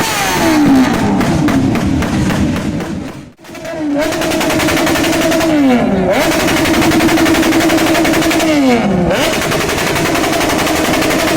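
Motorcycle engine with a rapid staccato exhaust beat, held at steady revs and then dropping in pitch as the throttle comes off, about three times. It cuts out briefly about three and a half seconds in.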